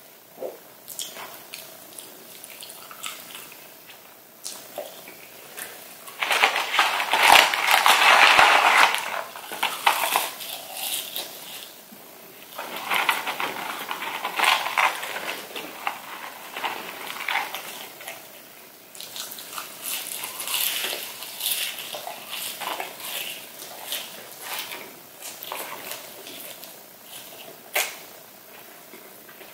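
Close-miked chewing of crispy breaded chicken nuggets, in bursts of crunching with wet mouth clicks between. The loudest, densest crunching comes about a quarter of the way in.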